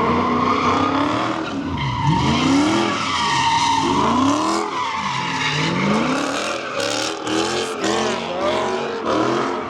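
A car doing donuts: the engine revs up and down over and over while the rear tyres skid and squeal on the pavement.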